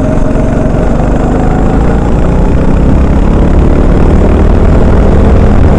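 Honda 390 cc single-cylinder four-stroke kart engine running hard on track, its pitch climbing gradually over the second half as the kart accelerates.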